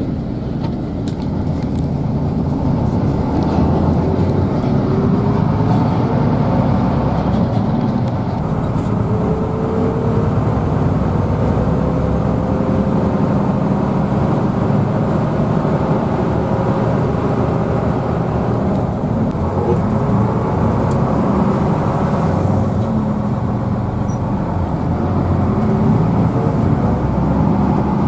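Hino AK bus engine running under way with road noise, heard from inside the cabin. A faint whine slowly rises in pitch in the middle.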